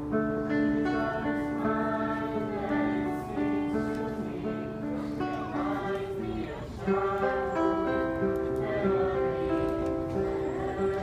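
A song sung by a group of voices in held, melodic notes, accompanied by strummed acoustic guitar, with a short break about six seconds in.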